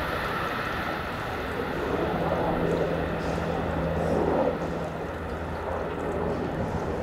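Short freight train hauled by an EF66 electric locomotive rolling slowly away over the rails: a steady rumbling hiss, with a low steady hum that comes in for a few seconds midway.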